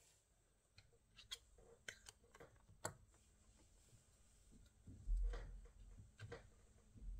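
Scattered faint clicks and taps at irregular intervals, with a louder low thump about five seconds in.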